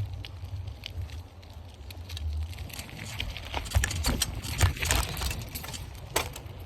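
Bicycle being ridden, its parts rattling and clicking, with a denser run of rattles about halfway through, over a low rumble of wind on the microphone.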